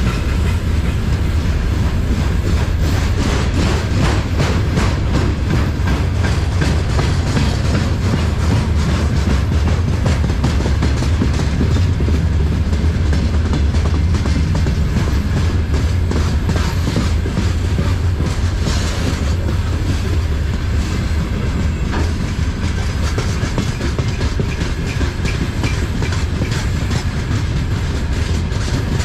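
A train passing close by, its wheels clattering over the rails in a rapid run of clicks over a steady low rumble.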